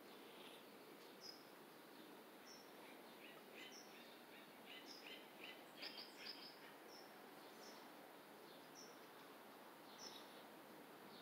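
Faint birdsong over quiet background noise: a short, high, falling chirp repeated about once a second, with a quicker run of lower chirps in the middle.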